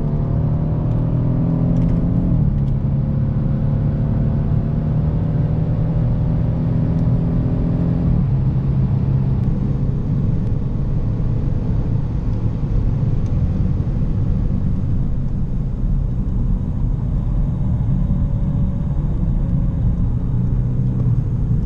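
BMW car engine heard from inside the cabin, accelerating hard on a racetrack: its note climbs, drops sharply at an upshift about two seconds in, climbs again and drops at a second upshift about eight seconds in. After that it runs more steadily under a constant road and tyre rumble.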